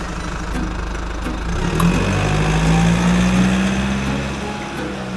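Car engine revving: it runs steadily, rises in pitch about two seconds in, then fades away near the end.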